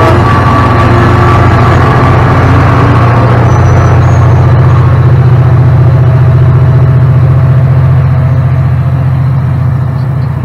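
SunRail commuter train passing close by: a loud, steady low rumble from its MP32PH-Q diesel locomotive and wheels on the rails as the bilevel coaches roll past. The rumble eases off a little near the end.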